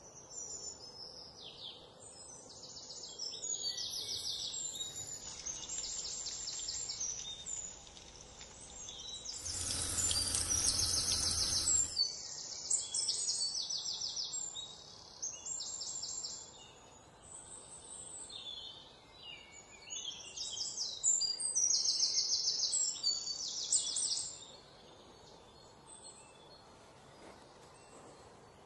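Small birds chirping in short, quick, high-pitched trilled phrases, one after another. About ten seconds in there is a two-second burst of broad noise with a low hum.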